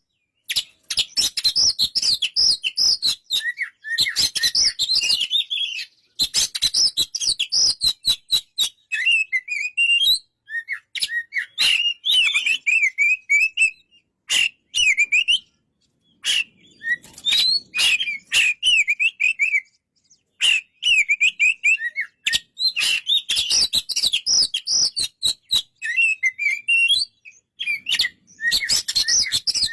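Oriental magpie-robin singing a varied song of quick sliding whistles mixed with rapid clicky notes, in phrases separated by short pauses.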